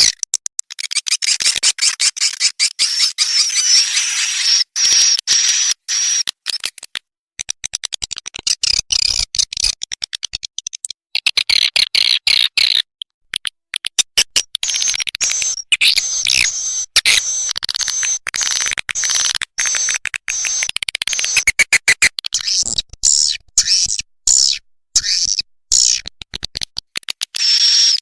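Swiftlet lure recording: a dense, rapid, high-pitched twittering of buzzy swiftlet chirps and clicks, played as the call sound that draws swiftlets into a nesting house. It comes in long runs with a few brief breaks, around a quarter and halfway through and again about four-fifths through.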